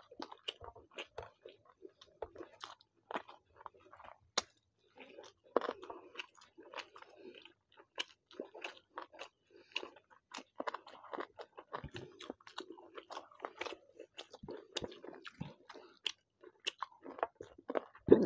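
Two people eating rice and chicken curry with their hands, close-miked: chewing and mouth smacks, heard as many short, irregular clicks.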